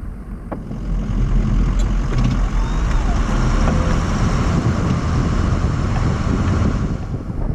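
Ford F350's 6.0 Powerstroke diesel engine running, a steady low rumble that builds over the first second and then holds.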